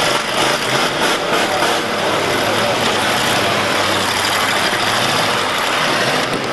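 Demolition-derby cars' engines running together, a loud, steady mass of engine noise.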